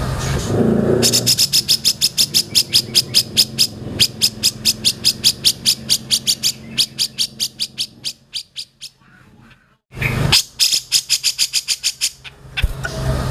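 Cucak jenggot (brown-cheeked bulbul) singing long runs of fast, sharp repeated notes. It breaks off for about a second and a half past the middle, then starts again.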